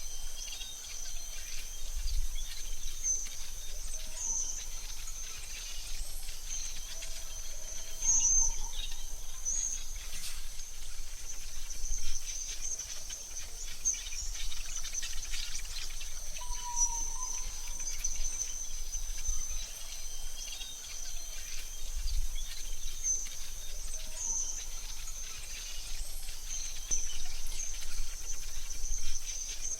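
AI-generated forest ambience: a steady high insect trill with scattered short bird chirps over a low rumble.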